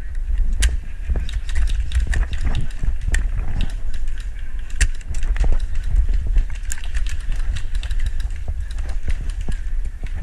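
Footsteps and rattling gear of a player walking, heard as many irregular clicks and ticks, over a steady low rumble of wind buffeting the body-worn camera's microphone.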